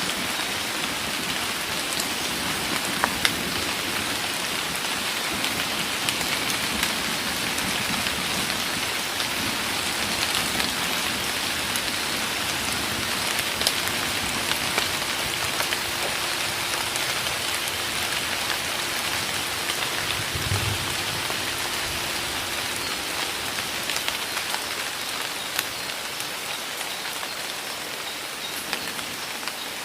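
Heavy rain pouring down steadily in a forest, a dense hiss with sharp individual drop hits here and there. A brief low thump comes about two-thirds of the way through.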